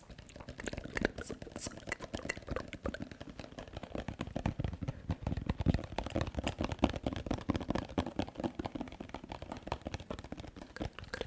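ASMR tapping and mouth sounds: a dense stream of fast, crisp clicks and taps.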